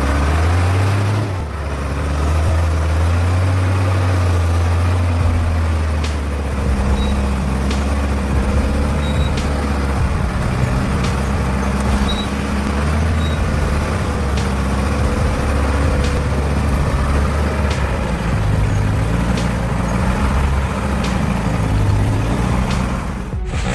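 Heavy log truck's six-cylinder diesel engine running steadily under load, its pitch drifting up and down a little.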